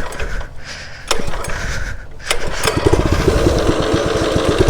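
Mini bike's small engine being pull-started on choke for a cold start: a stroke about a second in, then it catches about two seconds in and runs with rapid, even firing that grows louder.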